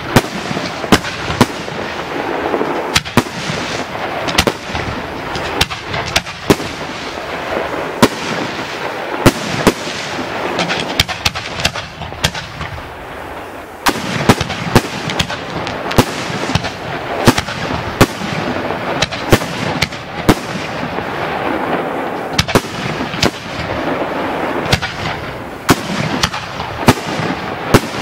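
Aerial firework display of Italian cylinder shells: a rapid, irregular series of sharp bangs from shells launching and bursting, often less than a second apart, over a continuous rushing noise.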